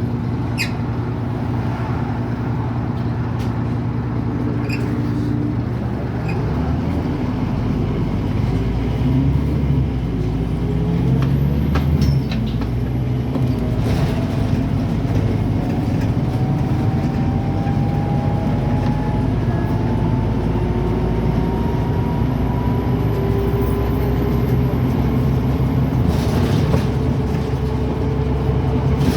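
Scania N270UD OmniCity double-decker bus heard from on board: the diesel engine runs steadily at first, then the bus pulls away about six seconds in. A whine rises in pitch as it gathers speed, then drops back and rises again for the rest of the stretch.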